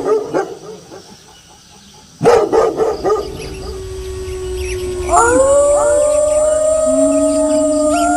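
A burst of dog barks about two seconds in over a single held howl, then several wolves start howling together about five seconds in, each voice rising and then holding its pitch.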